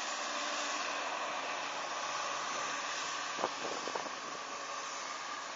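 Bobcat skid-steer loader working snow, its engine running as a steady hissing drone, with a few short sharp knocks about three and a half seconds in.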